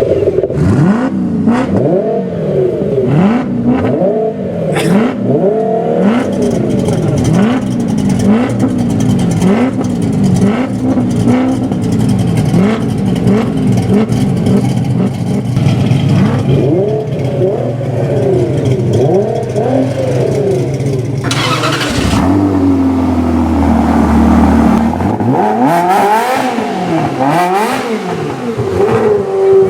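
Sports car engines revved hard again and again, the pitch sweeping up and falling back in quick blips, with overlapping notes from more than one engine. About two-thirds of the way through the sound changes abruptly to a steady engine note held for a few seconds, and then the blipping starts again.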